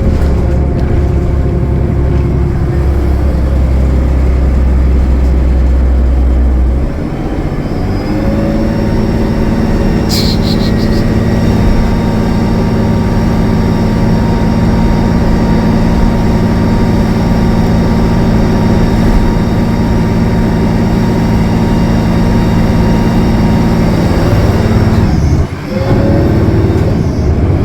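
Cummins ISL9 diesel engine of a 2015 Gillig Low Floor transit bus running steadily at highway speed. Its low note changes about seven seconds in, and the level drops briefly near the end.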